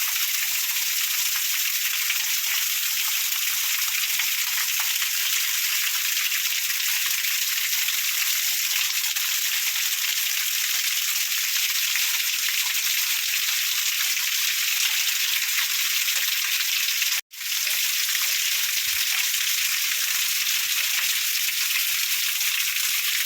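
Waterfall pouring, a steady loud rushing hiss of falling water, broken by a brief cut to silence about three quarters of the way through before the rush resumes.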